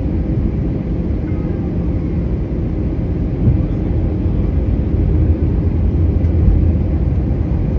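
Airbus A320 jet engines and airflow: a steady low rumble with a faint steady hum, growing a little heavier in the low end about two-thirds of the way through.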